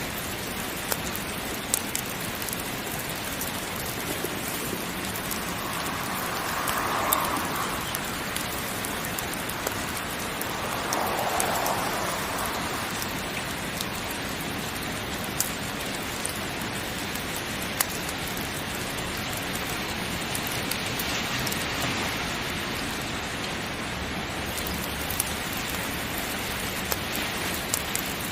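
Heavy rain falling steadily, with scattered sharp clicks and two brief swells in the middle.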